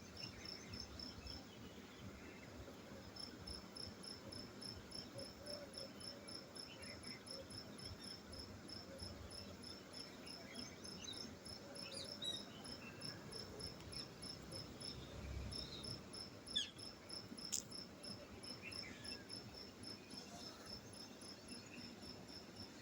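Insect chirping in a fast, even series of high-pitched pulses that pauses twice, with faint low rumble underneath and one sharp click late on.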